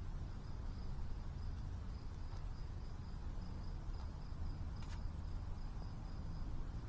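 A cricket chirping in a steady run of evenly spaced high chirps, over a low steady rumble, with a couple of faint clicks near the middle.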